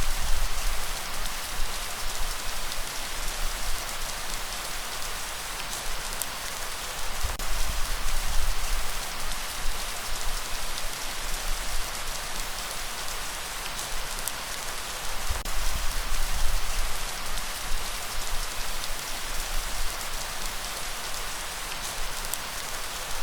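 Steady rainfall: an even hiss of drops with fine scattered patters. A low rumble swells about every eight seconds, lifting the overall level.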